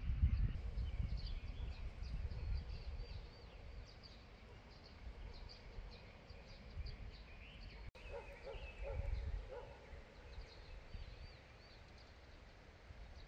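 Birds chirping and calling in short, high, repeated notes over a low outdoor rumble. After an abrupt change about eight seconds in, lower repeated calls join in.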